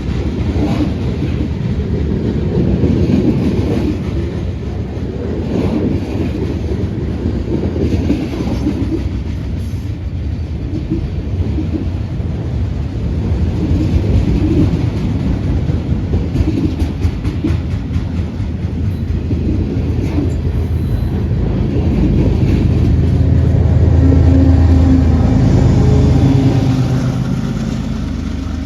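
A train's railcars rolling past with rapid wheel clatter over the rail joints. From about two-thirds of the way in, a steady engine drone builds and becomes the loudest sound near the end.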